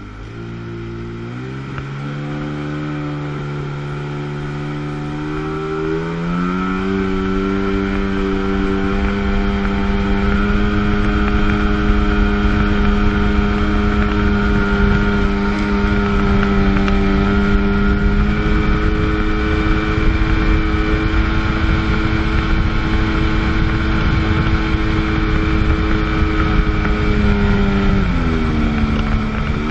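1997 Sea-Doo GTS jet ski's 720 two-stroke twin accelerating, its pitch climbing over the first six or seven seconds, then running at a steady high pitch at speed before easing off near the end.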